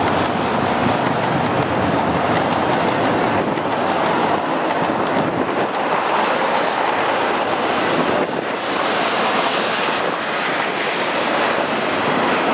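Double-stack intermodal freight train's well cars rolling past: a steady, loud rush of steel wheels on rail, with wind buffeting the microphone.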